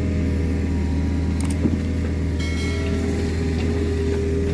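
Excavator diesel engines running steadily under load as a stuck mini excavator is hauled and climbs out of peat. A few sharp clicks and a brief high whine come about two and a half seconds in.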